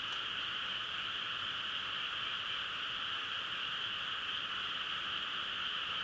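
A chorus of many frogs calling together, making a steady, unbroken high-pitched drone.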